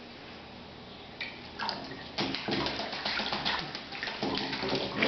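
Pet bird bathing in a dish of water: a quiet start, then a quick, irregular flurry of splashes beginning about one and a half seconds in and getting louder.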